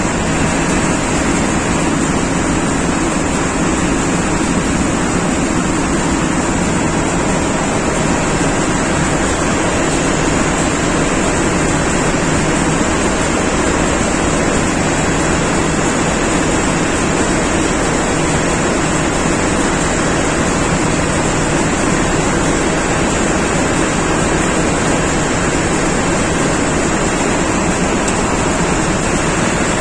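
Steady, loud machinery noise of running diesel engines in an engine room, an even roar without pauses or changes.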